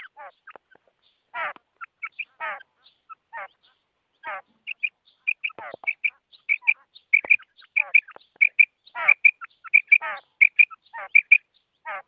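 Female Coturnix quail calling: short high notes, often in quick pairs, coming thick and fast from about a third of the way in, mixed with rasping calls that slide downward.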